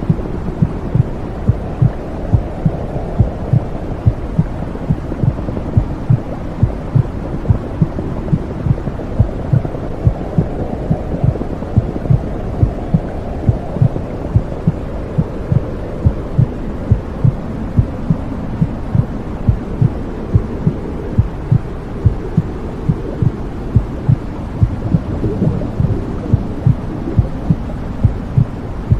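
Womb sound: a heartbeat beating steadily, about one and a half beats a second, over a continuous low whooshing noise.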